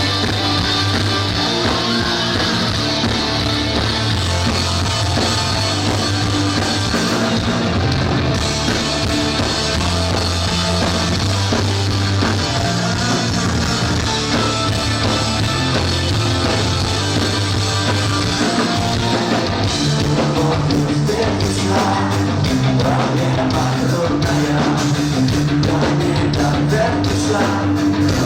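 Rock band playing a punk-rock-style song on electric guitar, bass and drum kit, loud and steady. The drums come through more sharply about twenty seconds in.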